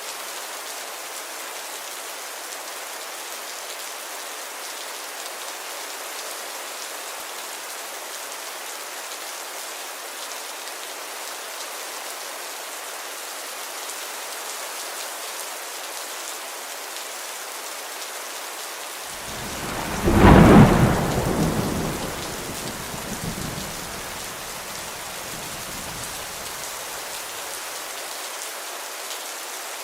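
Steady rain falling. About two-thirds of the way in, a clap of thunder breaks out with a sharp peak and rumbles away over several seconds.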